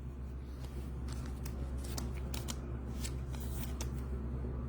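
Baseball trading cards being handled and flipped through by hand: a run of small, irregular clicks and slides of card against card, over a steady low hum.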